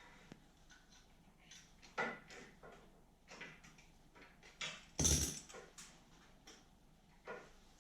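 Scattered clicks and knocks of hand tools and small engine parts being handled during reassembly of a snowblower carburetor, with one louder thump about five seconds in.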